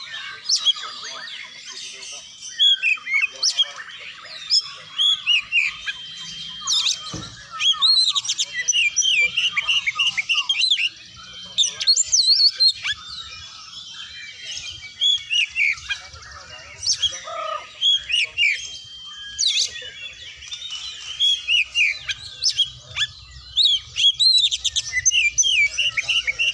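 Oriental magpie-robin (kacer) singing: a rapid, varied stream of chirps and whistles in loud bouts with short pauses between them.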